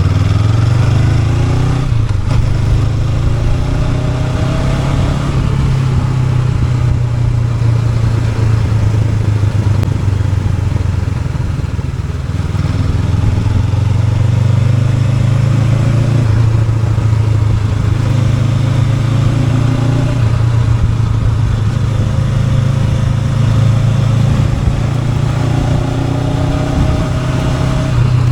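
Honda NX500's parallel-twin engine running under way. Its note rises as the bike accelerates near the start, again a few seconds in, and once more near the end.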